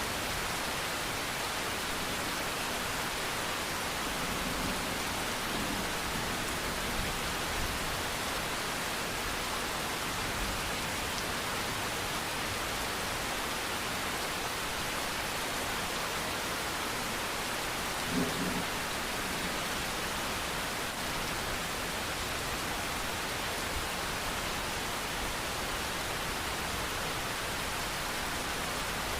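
Steady rain falling, an even unbroken hiss, with one short low bump about two-thirds of the way through.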